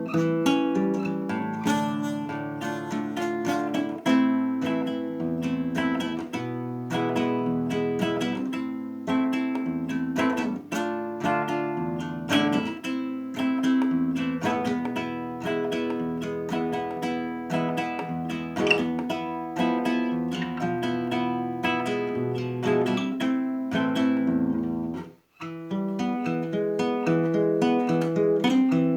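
Acoustic guitar played as an improvised instrumental medley, plucked and strummed, with a brief break about 25 seconds in.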